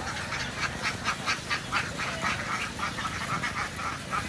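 A flock of ducks quacking: many short calls overlapping, several a second.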